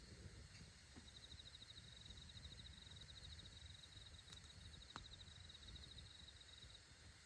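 Faint high-pitched insect trill, a cricket, made of rapid pulses in long runs that start about a second in and stop near the end, over a low rumble. One sharp crackle from the campfire about five seconds in.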